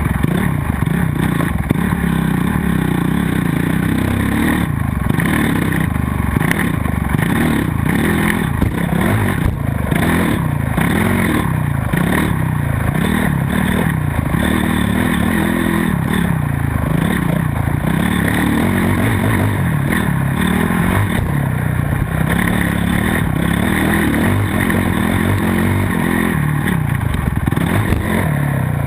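Motocross dirt bike engine revving up and dropping off again and again as it is raced around the track, the pitch climbing and falling every second or two.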